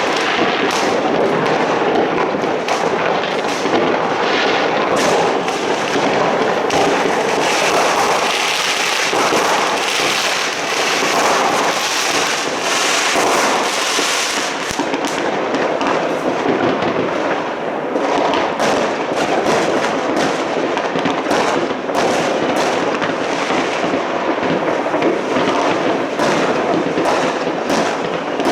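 New Year's fireworks and firecrackers going off continuously: a dense, unbroken crackle of many overlapping bangs and pops.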